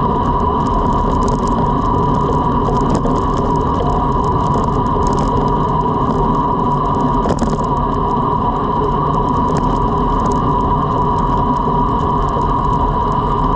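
Road bike riding fast: steady wind and road noise from the tyres and drivetrain, with a constant hum and an occasional click.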